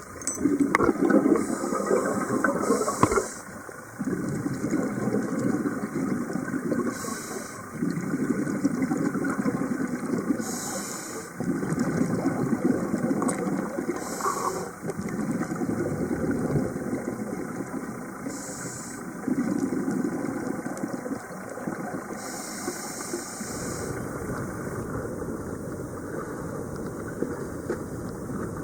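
Scuba diver breathing through a regulator underwater: each long exhalation comes out as a rumble of bubbles lasting a few seconds, with a short hiss of inhalation between them, about every four seconds.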